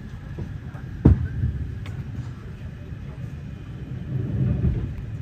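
Glacier Express train running, heard from inside the passenger carriage: a steady low rumble, with a sharp knock about a second in and the rumble swelling briefly near the end.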